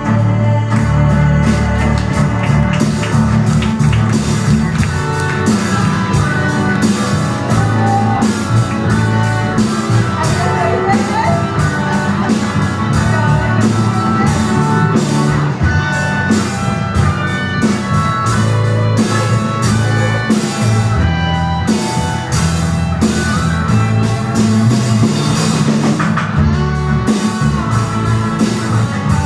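Live rock band playing a song, with a drum kit keeping a steady beat under electric guitar.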